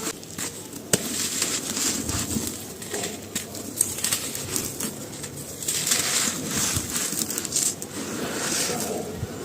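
Brittle, dry pressed material crushed and crumbled by hand, giving dense, irregular crackling and crunching. There is one sharp snap about a second in.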